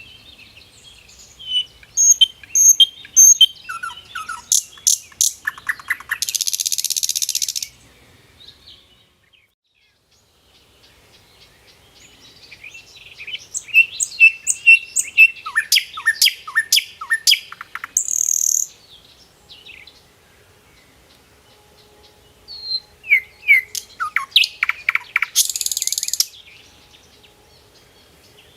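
A bird singing in three bursts of quick chirps and trills, each burst ending in a short harsh buzz, with pauses of a few seconds between them.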